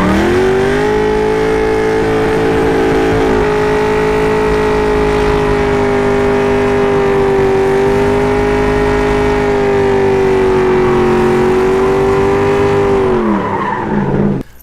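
The cammed 6.0-litre LS2 V8 of a 2006 Pontiac GTO with Kooks headers revs up quickly, then holds a steady high engine speed for about twelve seconds. Near the end the revs fall away.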